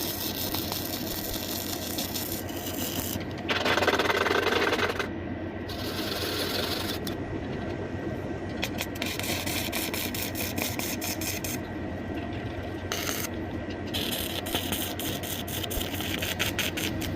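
Metalworking on an iron door hinge being welded to a door: a steady, rough, scraping noise that grows louder for a second or so about four seconds in.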